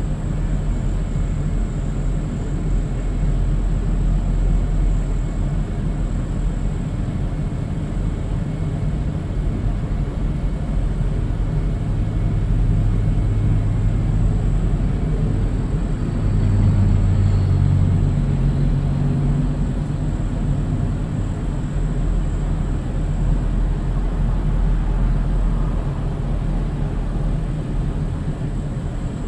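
A vehicle running: a steady low rumble with an engine hum that steps up in pitch a little past the middle.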